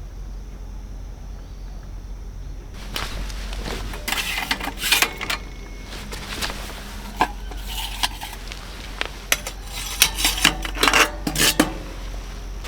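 Cookware and utensils clinking and knocking as camp kitchen gear is handled, starting about three seconds in.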